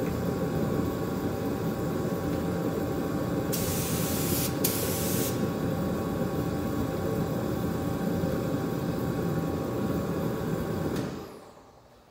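A motor-driven sprayer running steadily with a hissing spray, two sharper bursts of hiss about four and five seconds in, then winding down and stopping about eleven seconds in.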